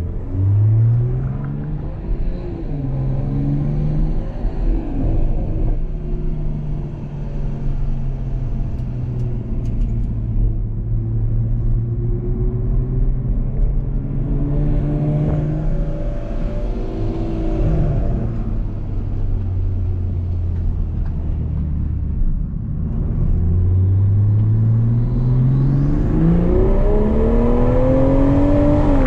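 Toyota GR Supra's engine heard from inside the cabin while it is driven on track. Its note rises with a gear change in the first few seconds and holds steady for a long stretch. It drops to a lower note around eighteen seconds in, then climbs steeply under acceleration near the end.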